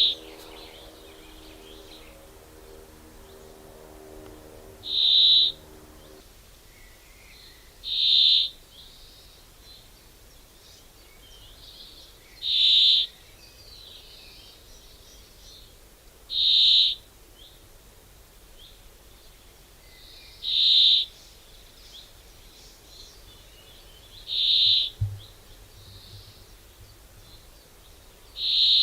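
A bird repeating one short, high call about every four seconds, over faint outdoor background noise. A low steady hum sits under the first few seconds, and there is a brief low thump near the end.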